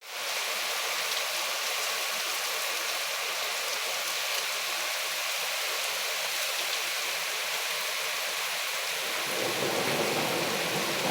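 Rain falling steadily, an even hiss. About nine seconds in, a lower rumble joins and the sound grows a little louder.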